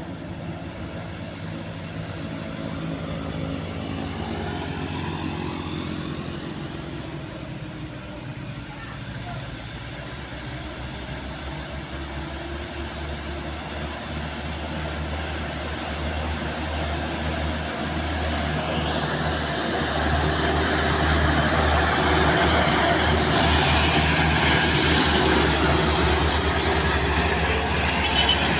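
Heavy truck engine running steadily. It grows louder through the second half, with a rising high hiss.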